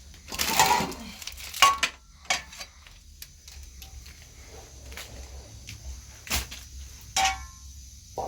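A series of irregular knocks and clatters, as of hard objects being handled. A longer scraping rustle comes about half a second in, and sharp knocks follow near two seconds and around six to seven seconds in.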